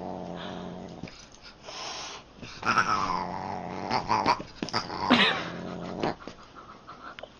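A pet animal growling and crying in several short outbursts, one about three seconds in falling in pitch, another about five seconds in.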